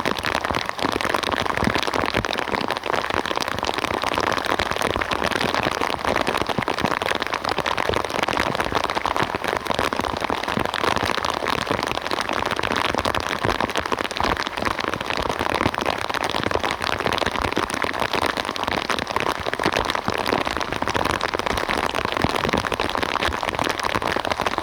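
Steady rain falling, a dense, even patter of many drops with no letup.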